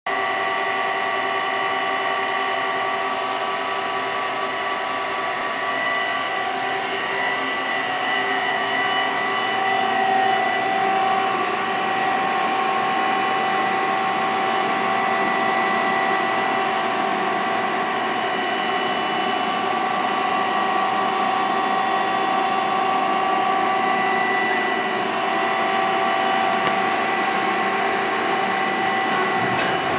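Star SV12 CNC Swiss-type automatic lathe running under power: a steady machine drone with several held whining tones over an even hiss.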